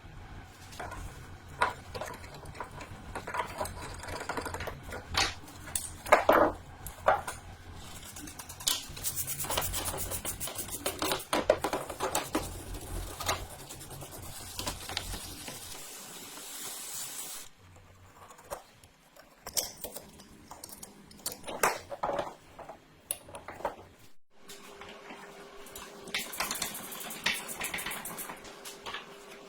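Metal parts clinking, knocking and scraping as they are handled in workshop restoration work, with a stretch of hissing noise in the middle.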